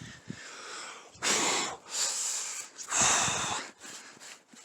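A person breathing hard: two loud, hissy exhales about two seconds apart, with a fainter breath before them.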